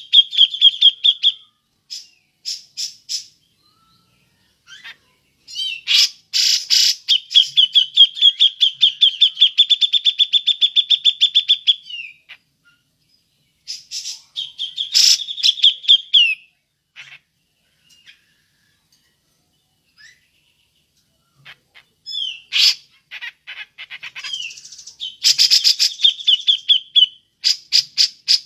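Grey-cheeked bulbul (cucak jenggot) giving its 'ngepik' call: runs of sharp, rapidly repeated notes at a steady pitch, with pauses between runs. The longest run lasts about six seconds, starting about six seconds in.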